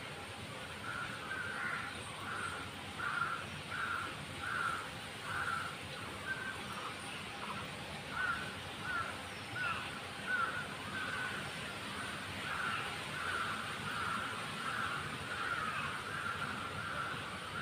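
A bird calling over and over, a long series of short call notes at roughly one to two a second, running together more densely in the last few seconds.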